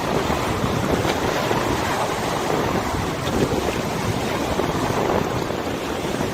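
Wind buffeting the microphone over river water, with a steady rush of waves and lapping water.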